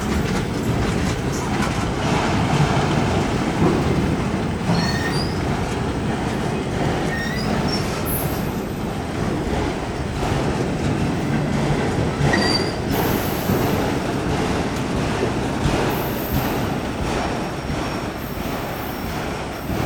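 Freight cars of a mixed CPKC train rolling past on the rails, a steady rumble with wheels clacking over the rail joints and short high wheel squeals now and then. The sound begins to fade near the end as the train passes.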